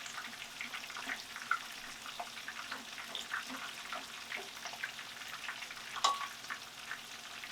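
Breaded cube steaks frying in hot oil in a skillet: a steady sizzle with many small crackling pops, and one sharper click about six seconds in.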